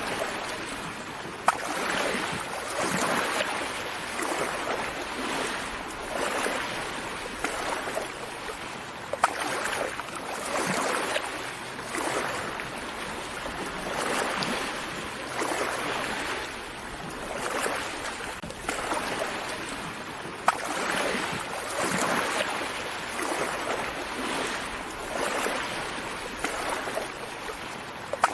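Gentle sea waves breaking and washing up a beach. The surf swells and eases about every two seconds, with a few brief sharp clicks.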